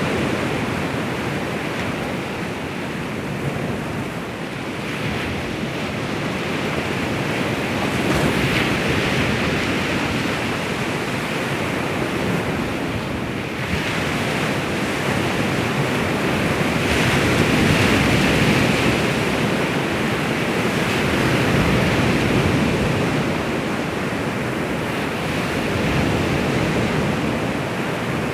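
Baltic Sea waves washing onto the shore, the surf swelling and easing every few seconds.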